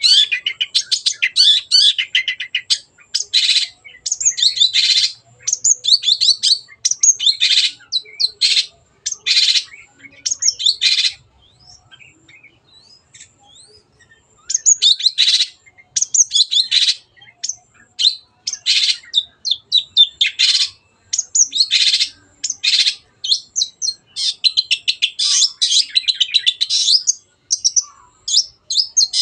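Long-tailed shrike (cendet) singing hard: quick strings of short, sharp notes and fast trills, with a pause of about three seconds near the middle.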